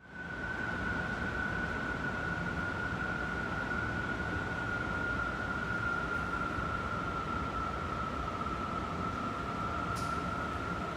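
Strong wind howling: one steady high whistle that sags slightly in pitch, over a rushing wind noise. It fades in at the start.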